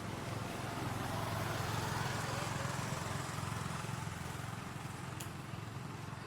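A motor vehicle engine running steadily with a low hum, swelling a little about two seconds in and easing off after.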